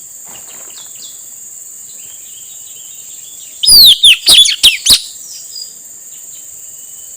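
Male blue-rumped parrot (puling, nuri tanau) giving a quick string of five or six sharp, high, down-sweeping whistled calls about halfway through. A steady high-pitched insect drone runs underneath.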